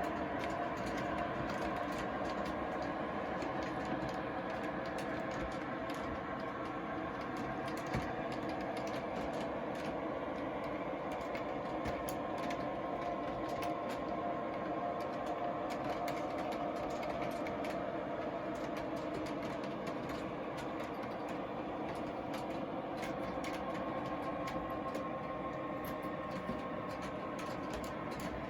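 MTH Railking SW1500 O-gauge model diesel switcher running on the track, its onboard sound system playing a steady diesel engine hum, with a constant patter of light clicks from the wheels on the rails.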